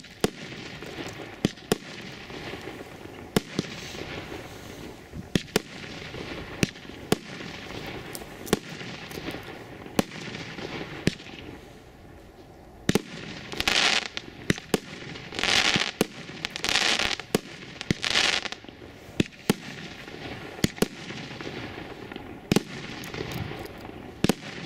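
Feeriya 'Karibi' SU403-49 fireworks cake (49 shots, 30 mm calibre) firing: a string of sharp bangs from shells launching and bursting, roughly one a second. Midway there are four longer hissing bursts.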